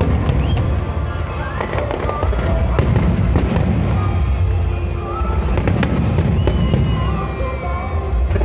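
Fireworks display: a continuous low rumble of booms with many sharp cracks, and several whistling tones that glide in pitch, one long falling whistle about six and a half seconds in.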